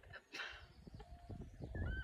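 Faint scattered clicks and rustling, then near the end a short high-pitched rising whine from an animal.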